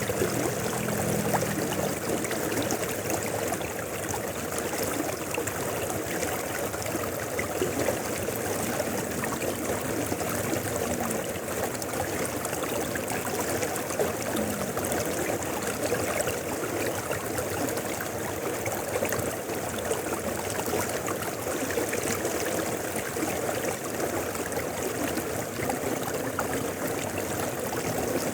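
Mountain river flowing: a steady rush of running water with small trickling and gurgling sounds.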